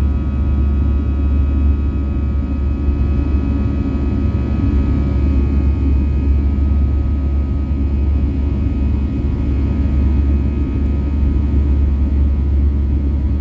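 Steady cabin noise inside an Airbus A320-214, whose engines are CFM56-5B turbofans: a loud low rumble with several steady high whining engine tones over it, holding level throughout.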